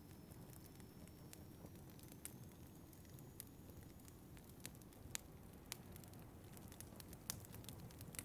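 Quiet wood fire crackling, with scattered sharp pops, over a low steady rumble of wind.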